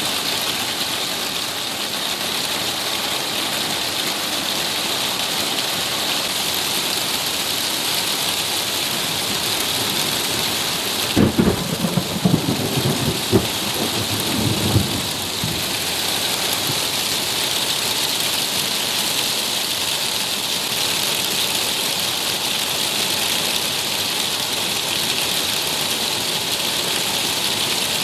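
Heavy rain falling steadily. About eleven seconds in, a thunderclap crackles and rumbles for about four seconds.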